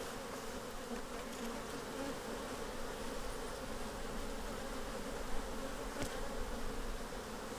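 Honeybee colony humming steadily around an open hive, a dense buzz of many bees. A couple of faint clicks sound near the end.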